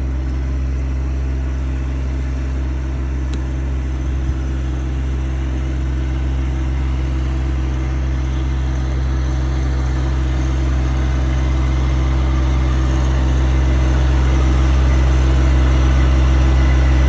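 Tractor engine running steadily, growing a little louder over the last few seconds, with a brief knock about four seconds in.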